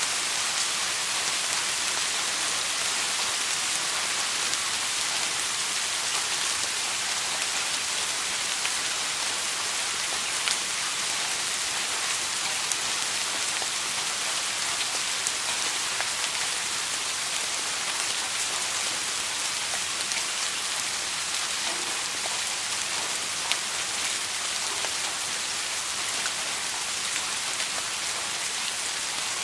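Steady rain falling on a surface: a dense, even hiss with many small scattered drop ticks.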